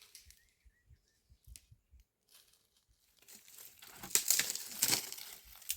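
Rustling, crinkling noise of something being handled. It starts about three seconds in and gets loud, with a few faint low thumps and short chirps before it.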